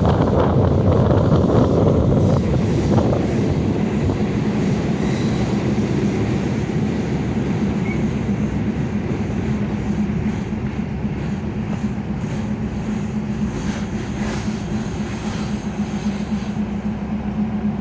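Thai ordinary passenger train No. 209 running on the rails, its noise slowly easing off, with a steady low hum coming up clearly in the second half.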